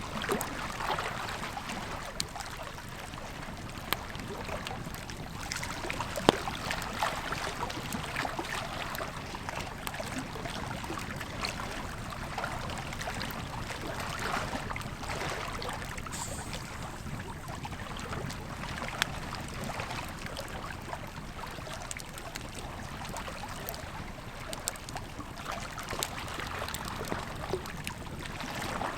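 Campfire crackling, with occasional sharper pops, over the steady rush of a flowing river.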